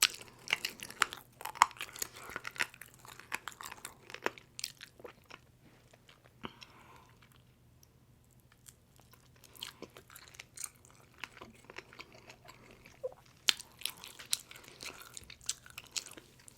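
A person biting and chewing Domino's pizza close to the microphone: a run of mouth clicks and smacks, with a lull of about two seconds around the middle.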